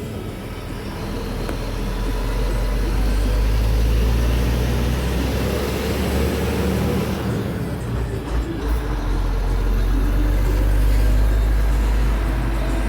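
Scania P124 truck's diesel engine pulling under load, heard from inside the cab. It gets louder over the first few seconds, drops briefly about eight seconds in, then builds again.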